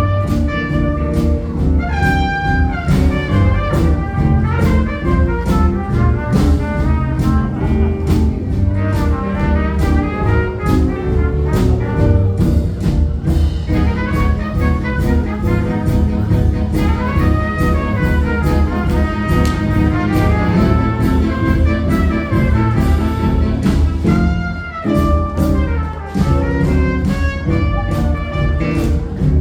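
Live jazz band playing, brass horns carrying the melody over a steady drum beat.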